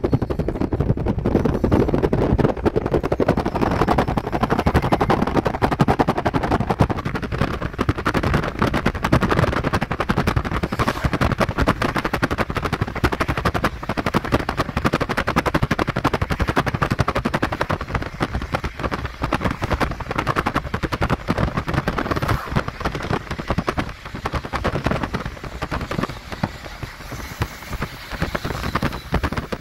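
Double-stack intermodal freight train rolling past, its steel wheels clattering over the rails in a steady, dense run of clicks and knocks, easing slightly near the end.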